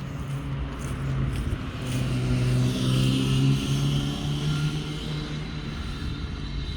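A motor vehicle passing by: a steady engine hum that grows louder toward the middle and then fades away.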